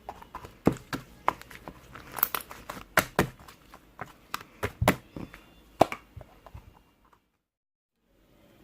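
Handmade slime being squished and pressed by hand, giving sharp, irregular clicking pops. It cuts off suddenly about seven seconds in.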